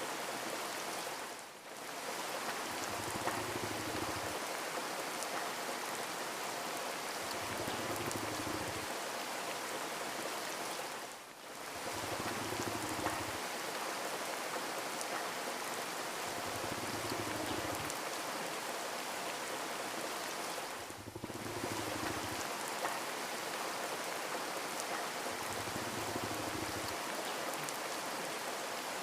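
Steady rain falling, an even wash of drops that dips briefly about every ten seconds.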